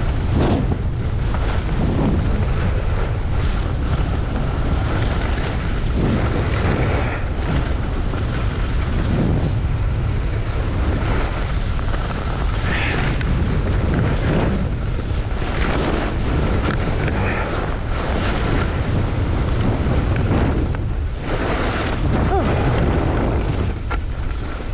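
Wind rushing over the microphone while skiing downhill, with repeated swishes of skis turning in snow every second or two.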